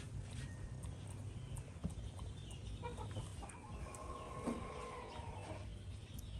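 A rooster crowing: one long call that starts about three seconds in and lasts nearly three seconds, over a steady low hum.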